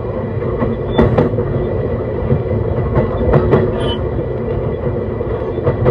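JR East E131 series electric train running at speed, heard from inside a car: a steady rumble of wheels on rail with a hum underneath. Sharp clicks of the wheels passing rail joints come in pairs, about a second in, around three to three and a half seconds in, and again near the end.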